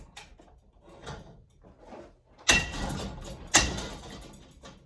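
Ceiling fan blade arms taking two hard strikes about a second apart, each leaving a brief ringing decay, with faint handling clicks before them. The blade arms hold without snapping.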